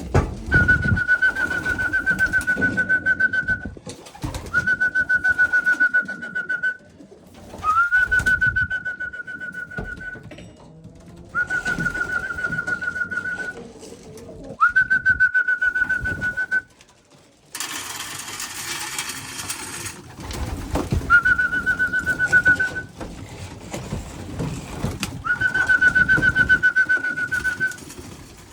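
Pigeons cooing in a loft, over seven long whistle calls of about two seconds each, each a steady trilling tone. A short rushing hiss comes about two-thirds of the way through.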